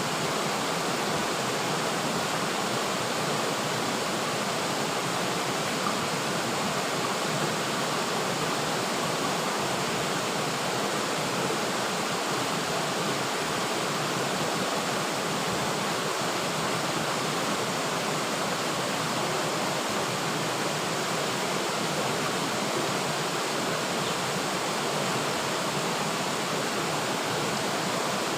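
River water flowing and rushing steadily, an even wash of noise with no breaks.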